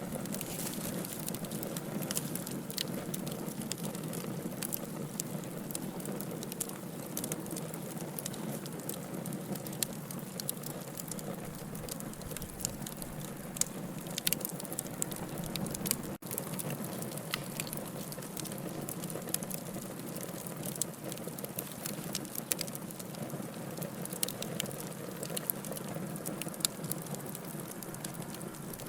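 Wood fire burning in a fireplace, with a steady hiss and frequent irregular crackles and pops. The sound cuts out for an instant about sixteen seconds in.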